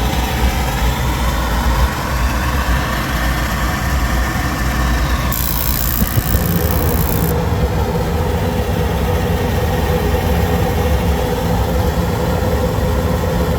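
Goodman gas pack running on a call for heat, with its newly replaced induced-draft motor running steadily. A high hiss comes in about five seconds in and lasts about two seconds, and a steadier hum with a clear tone sets in from about six seconds on.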